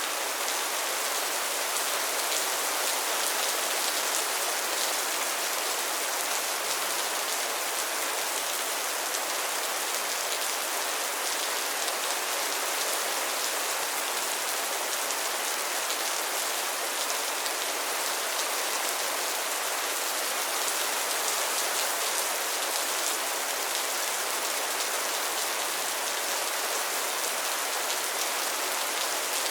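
Steady rain falling on a pond and its lily pads, a continuous hiss of many fine drops hitting water and leaves.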